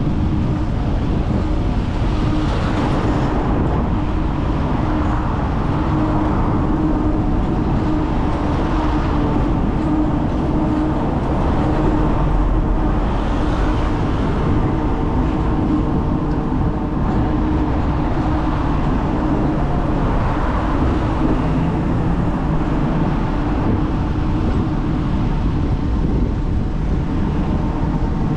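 Hong Kong double-decker electric tram running: a steady low rumble with a steady hum, and a swell of higher noise every few seconds.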